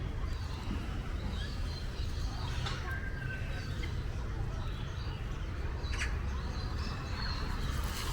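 Birds chirping and calling in an aviary, with short scattered calls over a steady low rumble and a sharp click about six seconds in.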